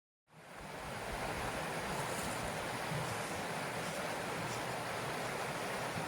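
Creek water rushing steadily, with low wind buffeting on the microphone; it cuts in suddenly about a quarter second in.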